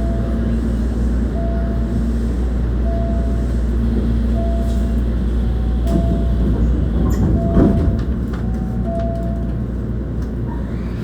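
Cabin sound aboard a Hankyu 1300 series train, a steady low rumble. Short beeps repeat about every second and a half until near the end, and a single knock comes about seven and a half seconds in.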